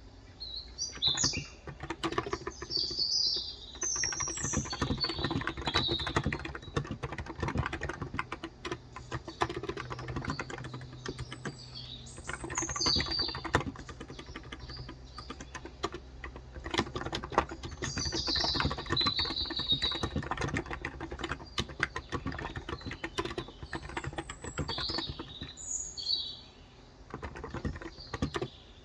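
Steady typing on a Cox Endeavor electro-capacitive (topre-style) tenkeyless keyboard with light 35 g switches, a fast run of soft key clicks. Birds chirp in short bouts over it, several times through the stretch.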